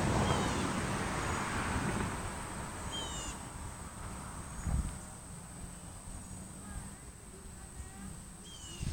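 Birds chirping: a few short, high, falling chirps, one about three seconds in and more near the end, with fainter chirps between, over a low rumbling noise that fades during the first few seconds.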